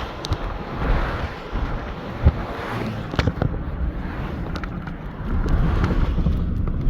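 Car driving: steady road and engine rumble heard inside the cabin, with scattered sharp clicks and knocks throughout.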